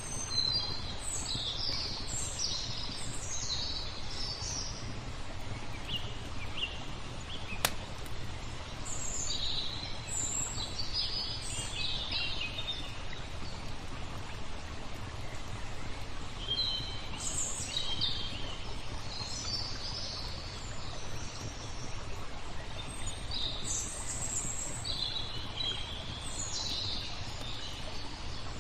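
Small birds chirping in busy bursts of quick high notes over a steady wash of flowing water, with a single sharp click about eight seconds in.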